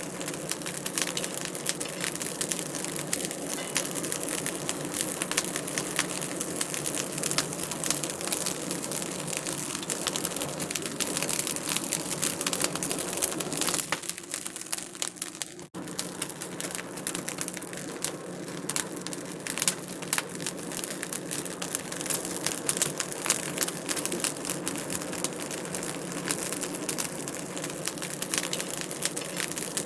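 Wood fire crackling in a fireplace: a steady stream of small pops and snaps. About halfway through it briefly thins and drops, then resumes abruptly.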